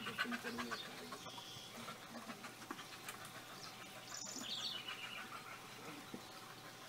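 A bird singing a short phrase of quick high chirps at the start and repeating it about four seconds in, with one falling chirp near the end.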